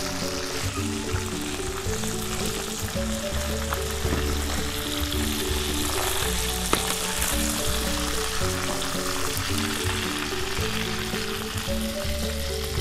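Fish frying in hot oil in a metal wok, a steady sizzle, with an occasional clink of the metal spatula. Background music plays under it.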